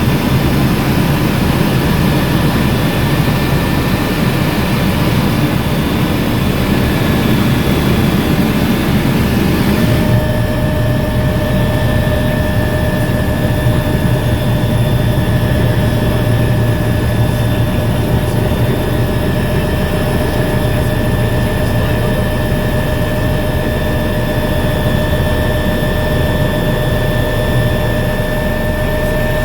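Bo 105 helicopter's twin turboshaft engines and rotor running steadily: a steady turbine whine over a fast, low beat from the rotor blades. About ten seconds in the sound shifts, the hiss thinning and a new steady whine coming in.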